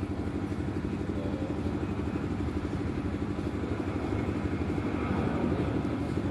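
A small engine idling steadily with a fast, even chugging, growing slightly louder toward the end.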